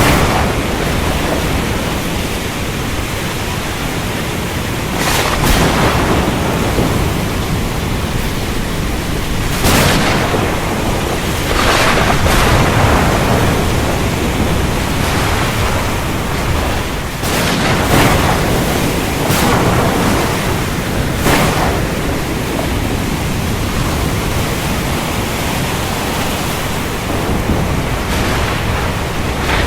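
Heavy rain falling steadily under a continuous low thunder rumble, with several sharp thunder cracks breaking through every few seconds.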